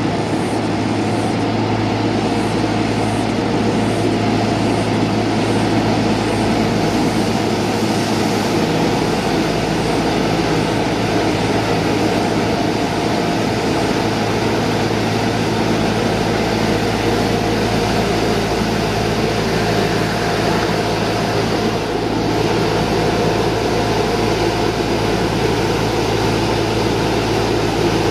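A heavy engine or machine running steadily, a constant low hum under an even rushing noise.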